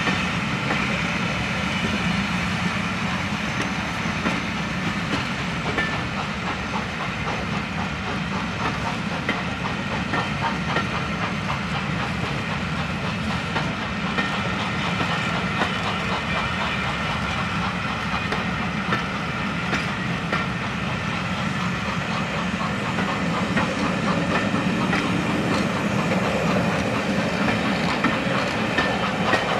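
A steam-hauled passenger train rolling past on the rails, its wheels clicking over the rail joints, with a steady hiss.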